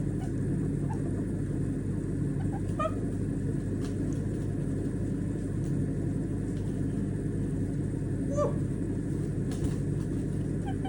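A steady low mechanical hum runs throughout. Over it come a few short, faint chirps from a white-bellied caique, one near 3 s and one falling in pitch about 8.5 s in, and a couple of light clicks.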